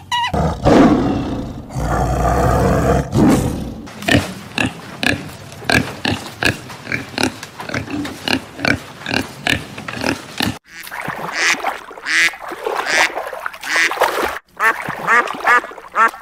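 Farm animal calls: a heavy low sound at first, then a long run of short calls repeated two to three times a second, then higher calls that bend in pitch. The sound breaks off suddenly twice in the second half.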